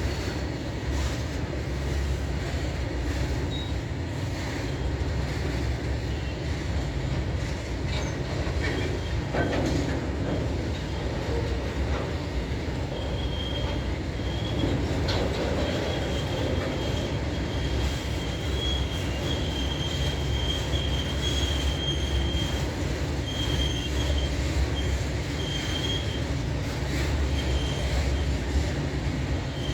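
Train rolling past with a steady rumble of wheels on the rails. From about a third of the way in, the wheels squeal with a high tone that breaks off and returns several times.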